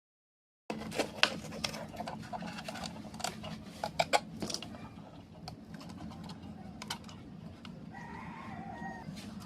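Sharp clicks and taps from handling a plastic solar light, over a steady low hum. About eight seconds in, a long pitched call sounds in the background.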